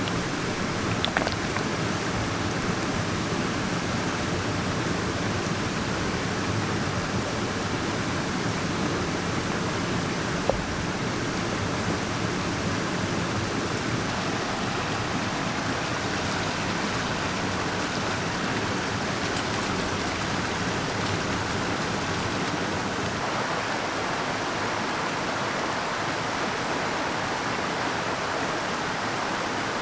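Mountain stream rushing steadily, with a single sharp click about ten seconds in.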